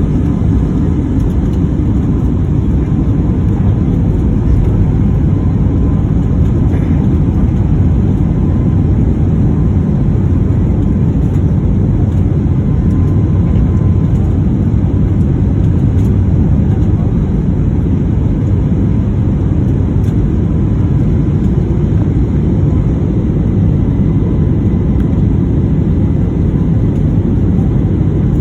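Passenger airplane's engines and airflow making a steady, loud low rumble, with faint steady tones above it.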